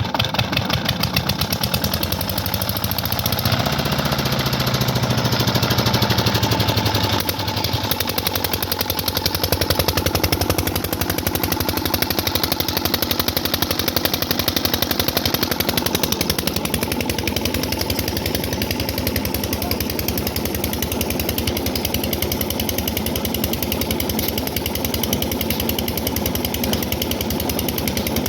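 Old black Ruston Hornsby diesel engine running with a rapid, even knocking beat. It has just caught and keeps running steadily.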